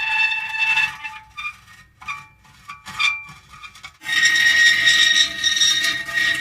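Metal creaking: a drawn-out, squealing creak stops a little under a second in, short broken creaks follow, and a new long, high creak begins about four seconds in.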